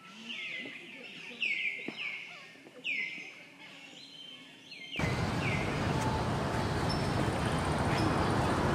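A bird calling over and over, a quick run of short downward-sweeping notes, several a second. About five seconds in the sound cuts to a steady rushing outdoor noise with a few faint high chirps.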